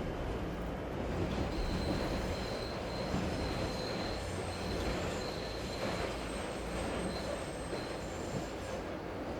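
Train wheels squealing on rails: a thin, steady high-pitched squeal that comes in about a second in and fades near the end, over a continuous low rumble of the moving train.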